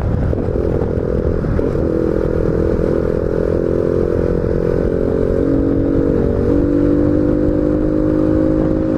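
Honda Biz 125's single-cylinder four-stroke engine running under way, made louder by a sport air filter, its pitch shifting a little a few times. Wind rushes over the microphone under the engine note.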